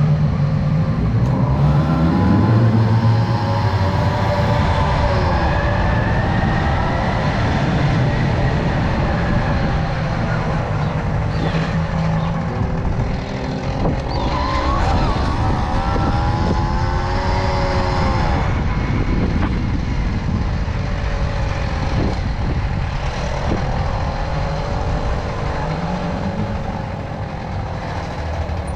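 Tomos moped's small two-stroke engine running under way, its pitch rising and falling as it speeds up and eases off, over steady wind noise.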